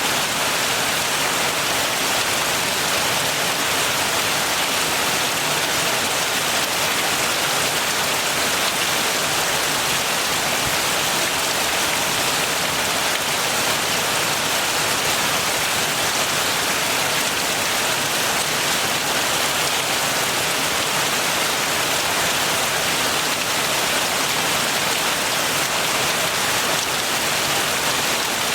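Steady heavy rain falling and pattering on surfaces, an even hiss with no change in intensity.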